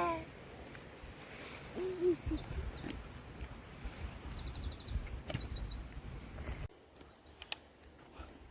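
Songbirds singing in quick trills and short whistles over wind rumbling on the microphone. The wind rumble cuts out abruptly near the end.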